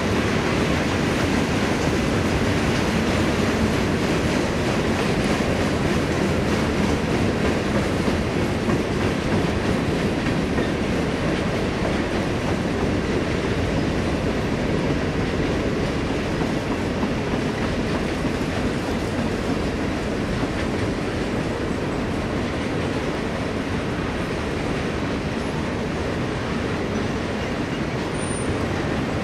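Freight train cars rolling past: the steady rumble of steel wheels on the rails as a manifest of boxcars, covered hoppers, a tank car and lumber flatcars goes by. It eases off a little in the second half.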